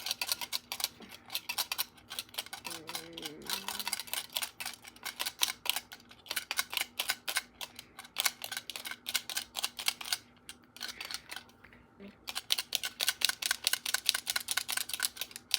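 A plastic TV remote control used as a pretend shaver, clicking and tapping rapidly, several clicks a second, with brief pauses about ten and twelve seconds in.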